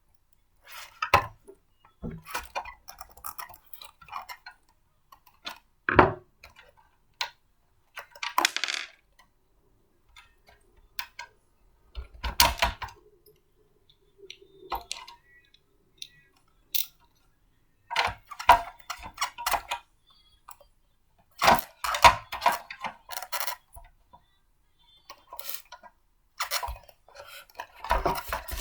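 Blender parts being handled and fitted together by hand: irregular clicks, clinks and knocks of hard pieces in clusters, with short pauses between them and one sharper knock about six seconds in.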